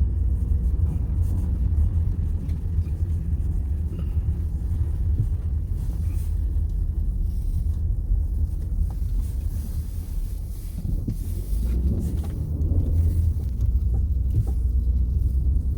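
A continuous low rumble that swells and eases, dipping slightly about ten seconds in.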